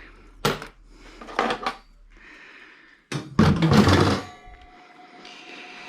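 A few sharp knocks and clatters from tools being handled, with a heavier thump about three seconds in and a faint steady thin tone near the end.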